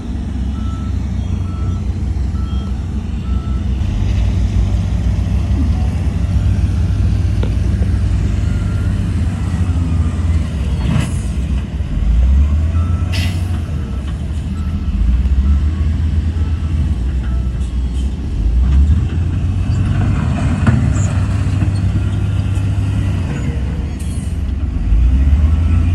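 Heavy diesel construction machinery running, its engine rumble rising and falling under load. A reversing alarm beeps about twice a second at the start and again about halfway through. Two sharp clanks come a little before halfway.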